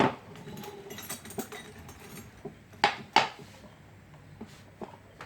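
Hand tools and metal parts clinking and knocking while an engine is worked on: a sharp clink at the start, two loud clinks close together about three seconds in, and a few fainter taps after.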